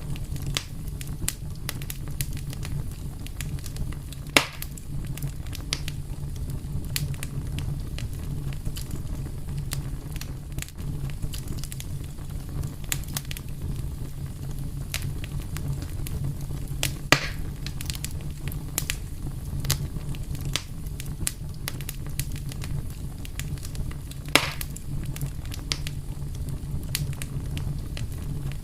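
A fire crackling: a steady low rumble of flame under frequent small crackles, with three louder pops, about four seconds in, past the middle and near the end.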